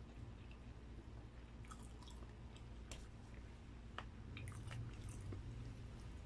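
Close-up chewing of food with the mouth closed: soft, wet mouth smacks and clicks at irregular intervals, a little more frequent in the second half.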